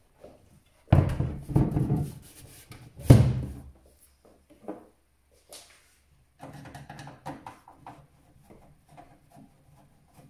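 Metal desktop PC case and its drive bay being handled while screws are taken out to free the old hard drive: two loud clatters in the first few seconds, then lighter clicks and rattles.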